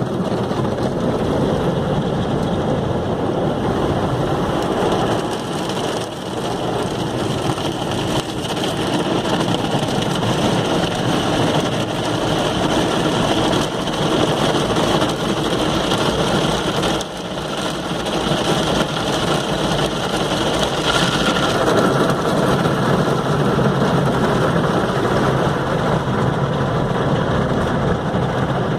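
Water spray hitting a car's body during a car wash: a loud, steady rushing noise with only small dips in level.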